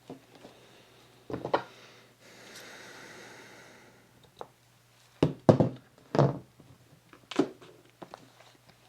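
Paper and craft supplies handled on a work table: several knocks and thumps, a few in quick succession about five seconds in, with a soft scraping hiss lasting under two seconds around the middle.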